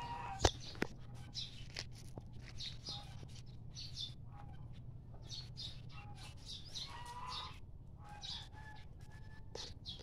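Birds chirping again and again in short, high calls, with some lower calls among them. A sharp click comes about half a second in, a fainter one just after, and a steady low hum runs underneath.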